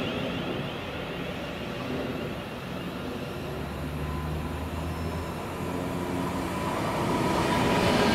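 A train running along the main line through the station, growing louder near the end as it draws nearer, with a low steady hum for a couple of seconds mid-way.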